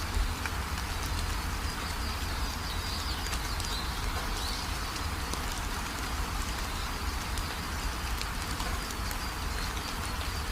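Steady rain falling, with scattered drop ticks and faint high bird chirps now and then.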